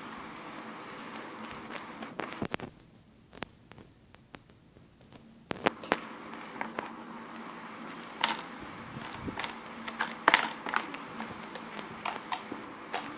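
Slime being put into a container by hand: scattered small clicks, taps and squelches over a steady low room hum.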